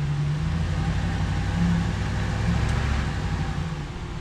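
Ram 1500 pickup's engine running steadily at low revs, easing off slightly near the end.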